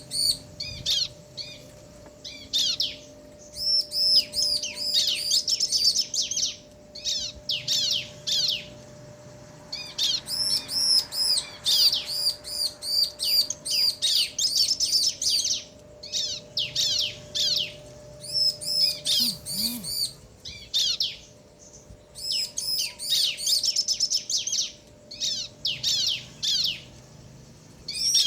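Bar-winged prinias (ciblek), a male and a female, calling back and forth in rapid bursts of high, chirping notes with short pauses between bursts. A faint steady tone sits underneath for the first two-thirds.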